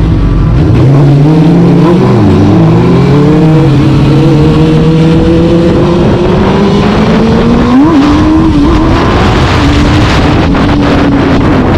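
Vehicle engine under way, revving and climbing slowly in pitch, with a sudden drop near 8 seconds in like a gear change, then holding a steady pitch, over wind and road noise.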